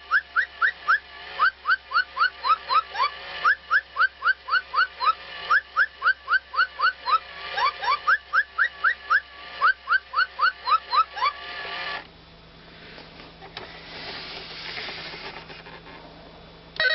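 Electronic robotic toy parrot playing its built-in bird sound: a rapid run of short rising whistled chirps, about three a second, that stops about twelve seconds in. Only a faint noise follows.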